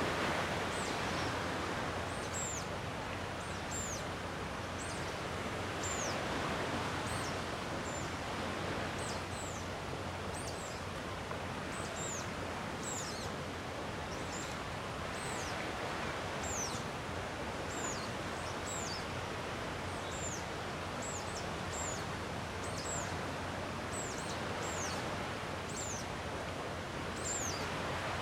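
Gentle sea waves washing on the shore, a steady hiss that swells softly every few seconds. Over it a small bird repeats short, high, downward-sweeping chirps, one or two a second.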